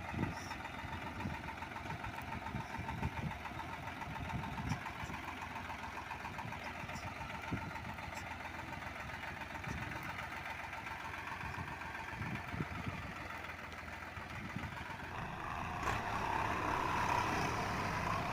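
Tractor engine running at a steady idle with an even, rapid pulse, growing louder about three-quarters of the way through.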